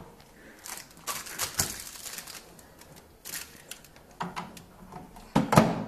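Irregular clicks, knocks and rustling from handling the crisp packet and the microwave while loading it. The loudest cluster comes near the end.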